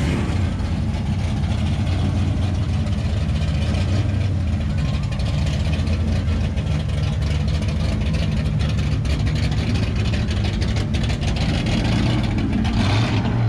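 1965 Dodge Coronet Hemi car's V8 engine running loud and low as the car rolls in at walking pace.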